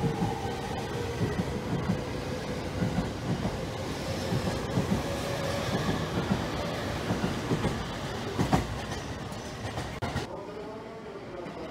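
Yellow-striped Sobu local-line electric commuter train running along a station platform: the steady rumble of the cars with a faint motor whine rising slightly in pitch, a rhythmic clatter of wheels over rail joints, and a loud clank about eight and a half seconds in. About ten seconds in the sound drops to a quieter one of a train approaching in the distance.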